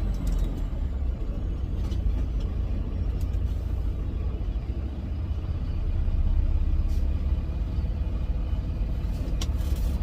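Steady low rumble of a Freightliner Cascadia semi-truck's engine and road noise heard inside the cab while driving, with a few faint clicks.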